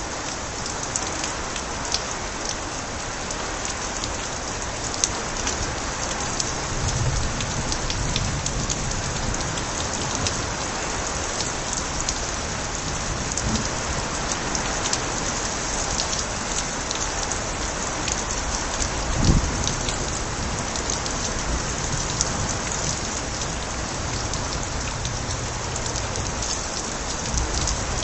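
Steady heavy rain with water spilling from overflowing gutters, sharp individual drop ticks over an even rush. A brief low thud comes about two-thirds of the way through.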